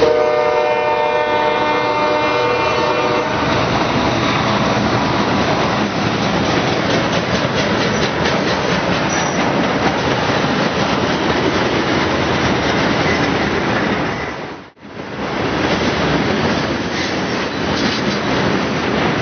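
Freight train passing close by. The locomotive's horn is sounding at the start and fades out after about three seconds, leaving the steady rumble and clickety-clack of the train rolling over the rails.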